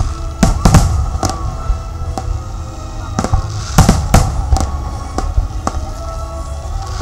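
Fireworks display: shells bursting with sharp bangs, a cluster about half a second to a second in and another around three to four seconds in, over steady music.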